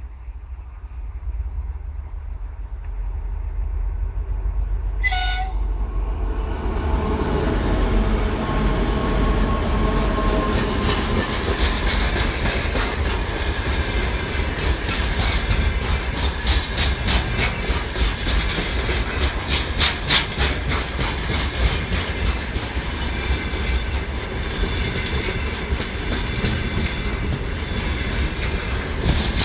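2TE10UK twin-section diesel locomotive hauling a freight train. It gives one short horn blast about five seconds in, then its engines rise in level as it comes up and passes. After that the freight hopper wagons roll by with a steady clickety-clack of wheels over the rail joints.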